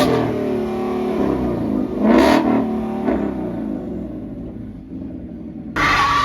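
Car engines revving hard as cars accelerate away, with two loud surges about two seconds apart and the engine note then fading off. The sound cuts abruptly near the end to a different sound with steady tones.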